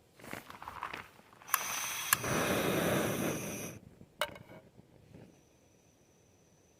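Handling noises: rustling, then two sharp clicks about half a second apart opening some two seconds of loud rasping, and one more sharp click a little after it stops.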